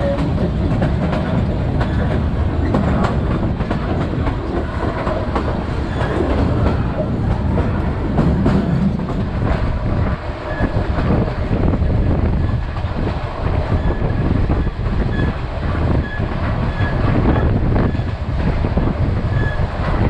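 Passenger train running along the track: a steady low rumble with the wheels clattering over the rail joints.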